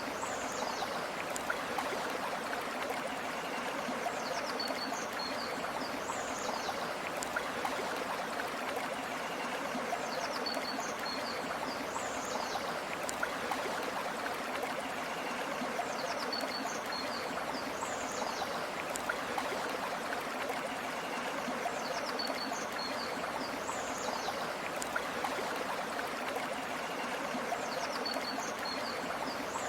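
River or stream water flowing steadily. A short, high call of a few quick notes and a falling whistle repeats the same way about every six seconds over the water.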